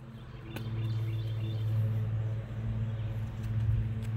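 Birds calling back and forth with faint high chirps, over a steady low hum.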